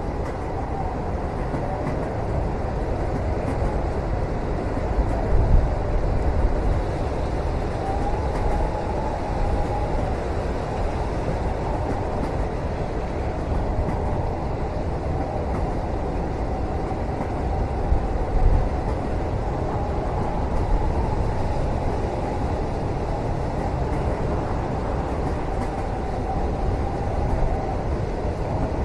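Moving train heard from inside a passenger cabin: a steady low rumble with a faint wavering whine above it, and a few louder low bumps about five and eighteen seconds in.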